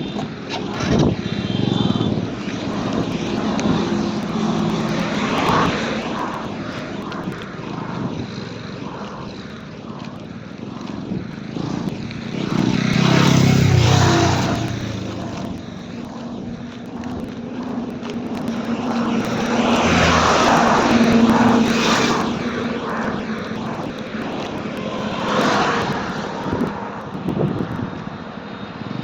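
TVS Apache RTR 200 4V's single-cylinder engine running steadily while riding, with wind rushing past. The sound swells louder three times: about twelve, twenty and twenty-five seconds in.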